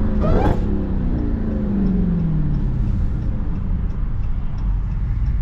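Dodge Charger Hellcat's supercharged 6.2-litre V8 engine heard through an open window, its pitch falling steadily over about three seconds as the revs come down. It then settles into a steady low drone of cruising.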